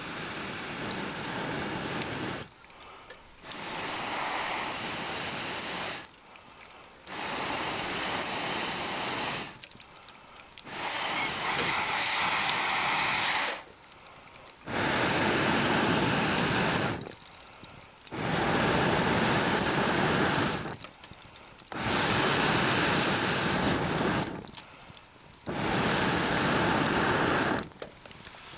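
Air blown into a campfire in about eight long, even puffs of two to three seconds each, with short pauses between them for breath.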